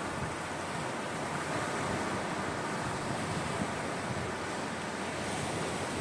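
Sea waves washing onto the shore in a steady rush that swells gently and eases, with wind buffeting the microphone.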